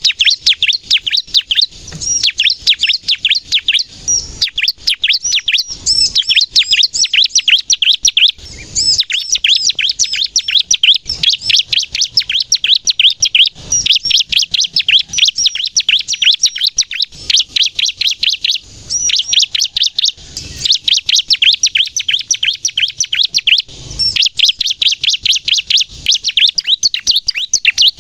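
Bar-winged prinia (ciblek) singing hard in a rapid-fire 'nembak' run: a fast, unbroken stream of sharp, high chirps, with short breaks every few seconds. Song of this kind is used to lure wild prinias and to set caged ones singing.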